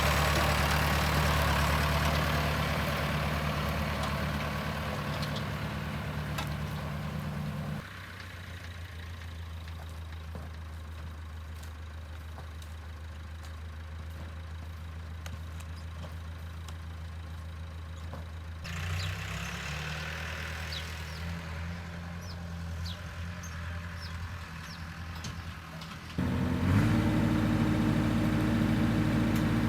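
A vehicle engine running steadily at idle. Its level and pitch change abruptly about 8, 19 and 26 seconds in, and it is louder and slightly higher-pitched after the last change.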